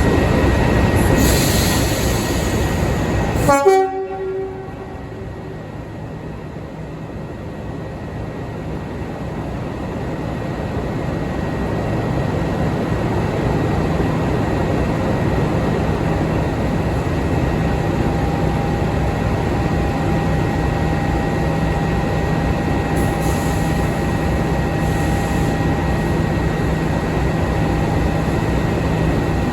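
Diesel locomotive running, with a short horn blast about four seconds in; the sound drops away suddenly, then the engine note builds steadily as it works harder.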